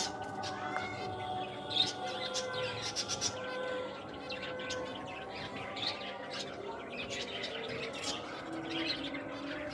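Small caged pet birds chirping: many short, high chirps and tweets throughout, from more than one bird.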